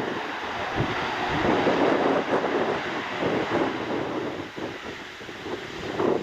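Aircraft engine noise, a steady rushing drone, with wind buffeting the microphone in irregular gusts.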